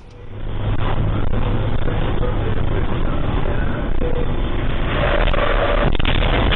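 Steady engine and road noise of a car in motion, recorded through a dashcam's low-quality microphone, with a strong low hum.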